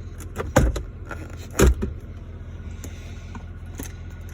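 Two plastic knocks about a second apart as the pickup's glove box lids are handled, over a steady low hum in the cab.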